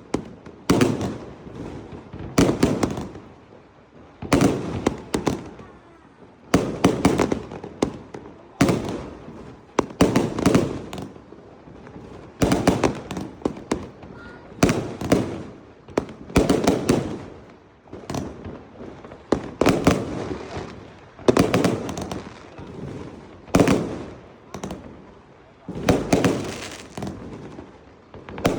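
Fireworks going off in a steady series: a sharp bang about every two seconds, each trailing off in a fading crackle and rumble.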